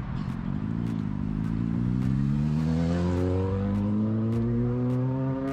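A motor vehicle engine accelerating, its pitch rising steadily over several seconds.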